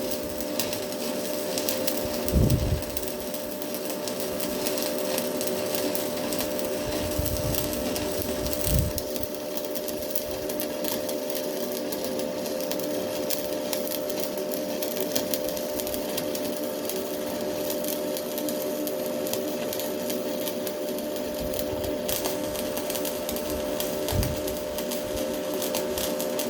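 Stick-welding arc crackling and sizzling steadily as a Hilco electrode burns into box iron, with a steady hum underneath and a few low thumps. The crackle changes just at the end, as the arc breaks.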